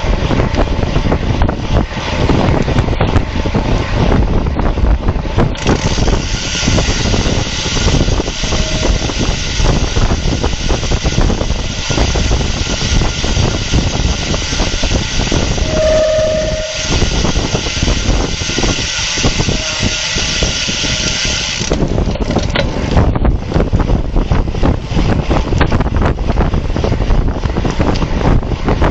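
Wind buffeting the microphone of a bike-mounted camera as a road bike races along. From about six seconds to about twenty-two seconds a steady hiss rides on top, and about sixteen seconds in there is a brief single tone.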